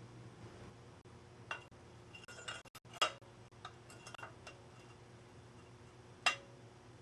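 Steel bicycle fork bearings and small metal parts being handled: a scattering of light metallic clinks with a short ring, the sharpest about three seconds in and another near the end, over a low steady hum.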